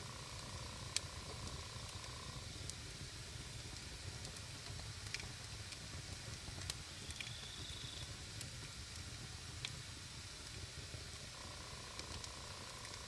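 Wood fire burning with a steady hiss and scattered sharp crackling pops. A faint steady high tone sounds over it at the start and again near the end.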